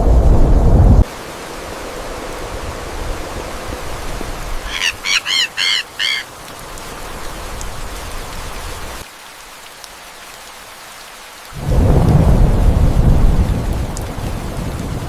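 Steady rain with thunder: a low rumble at the start that cuts off abruptly about a second in, and another long rumble from about two-thirds of the way through. Around the middle a bird gives about five quick, arched calls in a row.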